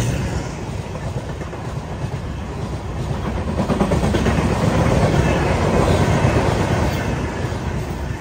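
Express train's LHB passenger coaches rolling past, wheels running on the rails. The sound swells in the middle and starts to fade near the end as the last coach goes by.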